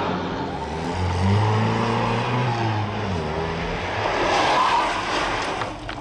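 A motor vehicle's engine running, its pitch rising and falling, with a few sharp knocks near the end.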